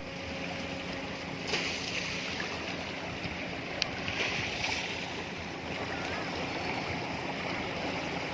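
Steady hiss of rain and wet road from a car driving in the rain, with a low engine hum underneath and an occasional small knock or click.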